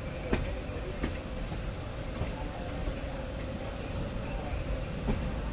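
Passenger train running, heard from inside the coach: a steady rumble with a faint steady squeal and a few sharp knocks of the wheels.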